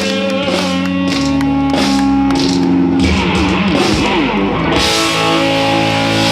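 A live rock band playing an instrumental passage led by guitars, with held notes and no singing.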